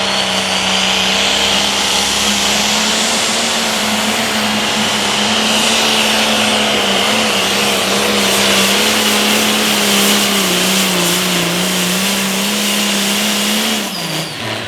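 International 1066 limited pro stock tractor's turbocharged diesel engine running hard at high revs through a pull. Its pitch wavers slightly, then falls away about fourteen seconds in as the engine comes off.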